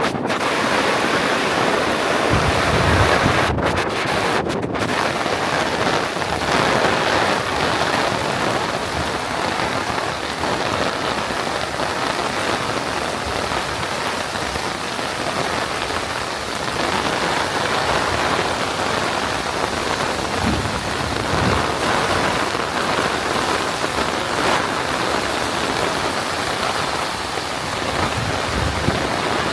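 Heavy rain falling and splashing on the ground and surfaces in a steady, loud hiss, with a few brief low bumps here and there.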